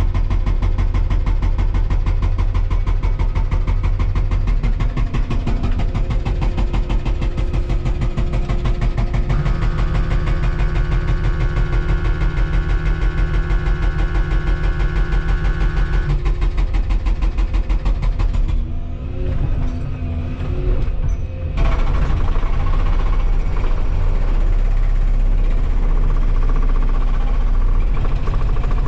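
Volvo 235EL excavator's diesel engine running under load with a fast, even pulse. A steady whine rides over it for several seconds in the middle. The engine sound drops away briefly about two-thirds of the way through, then comes back.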